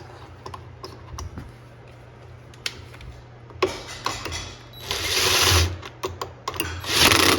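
Hand-work noise on washing-machine parts: scattered small clicks, then from a few seconds in several short scraping bursts of about a second each as parts are handled and pulled.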